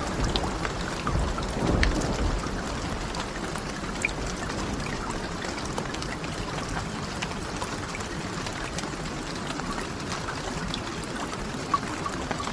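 Steady rain falling, with scattered small clicks of drops. A low rumble of thunder dies away in the first two seconds.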